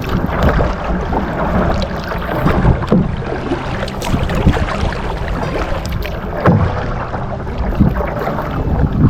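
Kayak on the water: paddle strokes splashing and water sloshing against the hull, over a low rumble of wind on the microphone.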